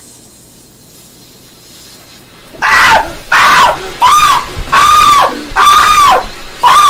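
A person screaming: after a couple of seconds of quiet hiss, a string of loud, short cries begins, about one a second, each rising and then falling in pitch.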